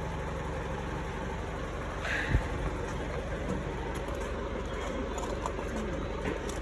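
Steady low engine hum, with a short clunk a little over two seconds in.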